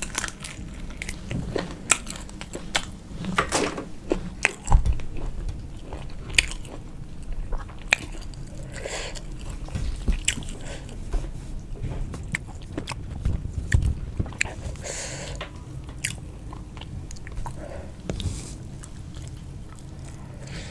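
A person eating close to the microphone: irregular chewing, biting and crunching with wet mouth clicks, and a few louder low thumps mixed in.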